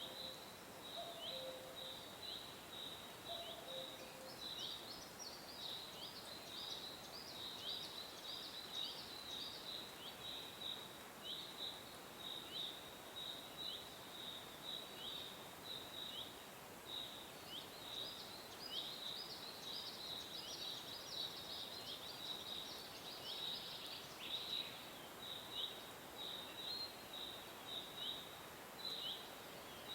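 Small birds chirping: a continuous run of short, high chirps that flick downward, two or three each second, over a steady hiss. A low call sounds a few times in the first few seconds.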